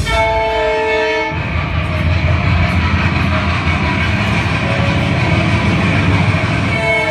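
A train horn sounds a chord of several steady tones for about a second, then the loud, steady rumble of a passing train takes over. The horn sounds briefly again near the end.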